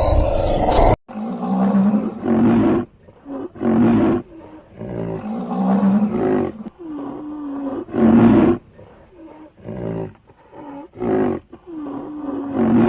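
Lion roaring: a series of about a dozen short, deep calls, each under a second, spaced about a second apart. A different loud, noisy sound cuts off about a second in, before the calls begin.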